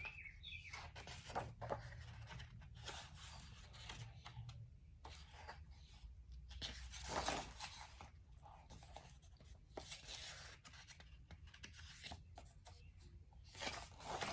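Faint, intermittent rustling of a book being handled and its paper pages turned, with a louder swish about seven seconds in.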